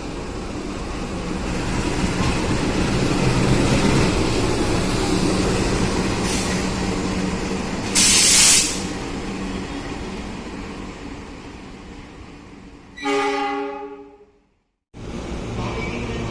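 A train running past, its rumble building to a peak about four seconds in and then fading, with a short loud hiss of air about halfway through. Near the end a locomotive horn sounds briefly and is cut off abruptly.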